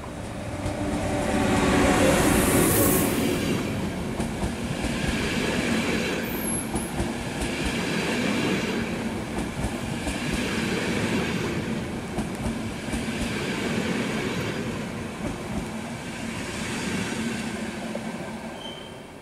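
ÖBB class 1116 Taurus electric locomotive passing close by, loudest about two seconds in, followed by its double-deck coaches rolling past, with the wheels clattering and swelling in waves as each bogie goes by and a brief high squeal about six seconds in. The sound fades near the end as the arriving train draws to a halt.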